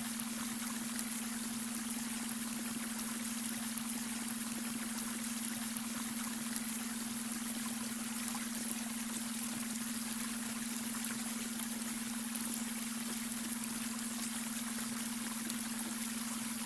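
Babbling brook water trickling and rushing steadily, blended with a steady, unwavering low tone: the beta brainwave tone mixed under the water.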